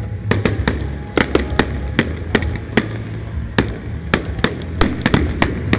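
Fireworks going off in a fast, irregular volley of sharp cracks and pops, about three a second, over a steady low rumble.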